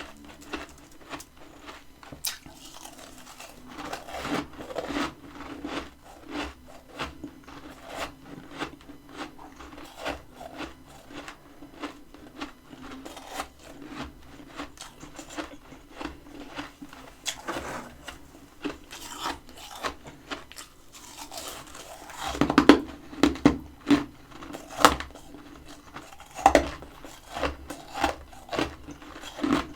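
Freezer frost crunching as it is scraped and bitten: a dense run of quick crackles, with louder, sharper crunches from about 22 seconds in.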